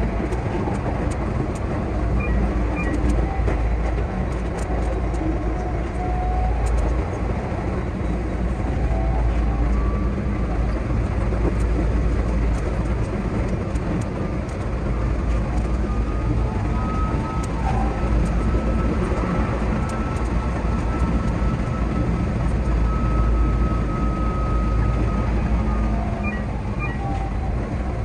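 Keihan 8000 series electric train running at speed, a steady rumble of wheels on rail heard from the cab, with a faint whine coming in for several seconds past the middle.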